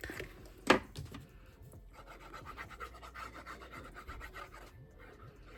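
Light scratching and rubbing of paper and tape being handled while a glued piece is prepared and its tape peeled away, with one sharp click under a second in.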